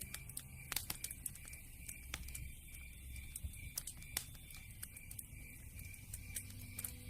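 Campfire crackling: irregular sharp pops and snaps from burning wood, over a faint steady high-pitched pulsing. Soft background music drops away early on and comes back in near the end.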